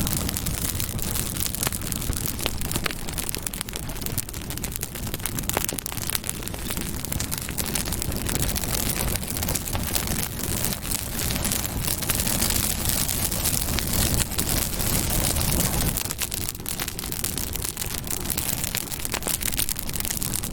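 Campfire burning: a steady low rush of flame with dense crackling and popping throughout.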